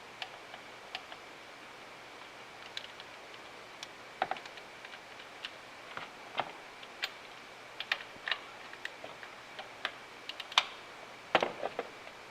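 Irregular light metallic clicks and taps of hand tools and small parts being handled while fitting injectors on a 5.9 Cummins diesel, with a sharper click about ten and a half seconds in and a quick cluster of clicks just after.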